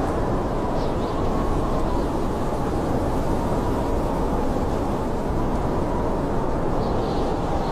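Blizzard wind blowing steadily, a low rushing noise with a faint whistling tone that wavers slightly in pitch.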